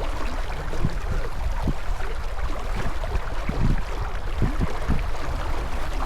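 Wind buffeting the microphone aboard a J24 sailboat under sail, a steady rush with uneven low gusts, with water rushing along the hull.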